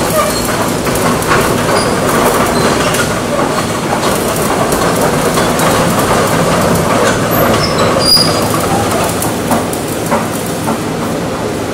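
Kobelco excavator working, a steady loud mechanical din with metallic clatter and a few short high squeals.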